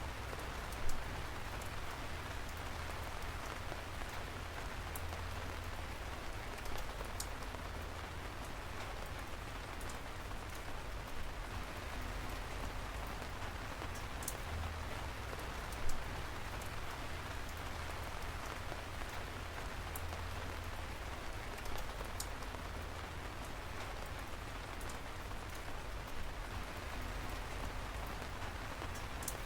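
Steady rain falling, an even hiss with now and then a sharp, louder drop tick; the loudest ticks come about a second in and again about halfway through.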